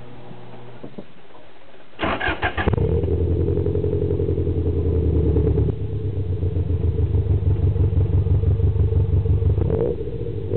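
Subaru Impreza GC8's flat-four boxer engine, breathing through an unequal-length exhaust manifold and an aftermarket muffler. It idles, then about two seconds in is revved sharply and held high, eases off a little partway, climbs again and drops back near the end.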